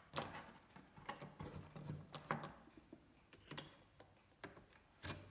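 Scattered faint clicks and light knocks of small objects being handled on a workbench, with one sharper click near the end, over a faint steady high whine.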